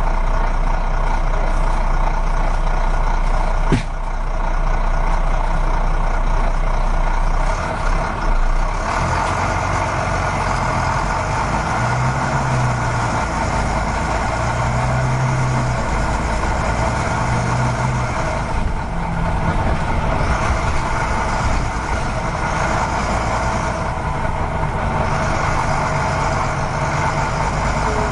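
Steady truck engine sound from remote-control model trucks at work. A sharp click comes about four seconds in.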